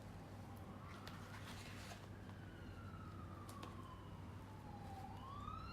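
A faint emergency-vehicle siren wailing, its pitch sliding slowly down and then rising again near the end, over a steady low hum with a few faint clicks.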